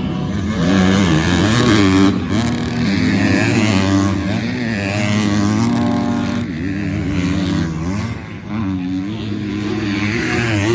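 Several 250cc four-stroke motocross bikes revving hard on the track, their engine notes overlapping and rising and falling again and again as the riders accelerate, shift and back off.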